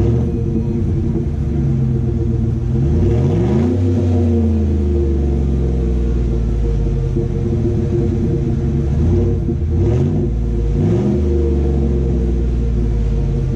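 Chevrolet Silverado V8 exhaust through a budget catback with a Dynomax Race Mini Bullet muffler, a deep steady rumble. The engine speed rises a few seconds in, then twice more near the end.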